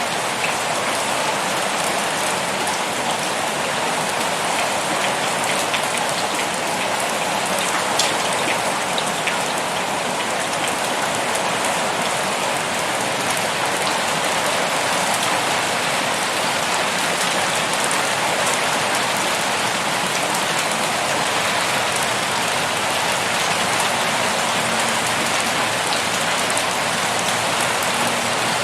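Heavy rain pouring down steadily, a dense even hiss with scattered individual drops pattering on a surface.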